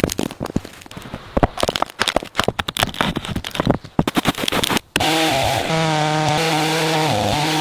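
Rapid, irregular clicks and knocks of wood being worked. About five seconds in, a power tool's motor starts running at a steady pitch.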